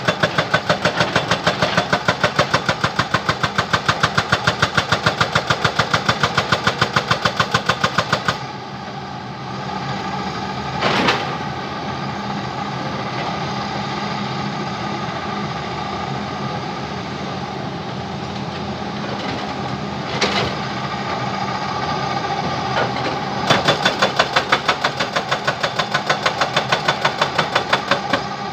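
Jackhammer pounding in a fast, even rhythm of blows over a running engine. It stops after about eight seconds, leaving the engine running steadily with a couple of single knocks, then starts hammering again near the end.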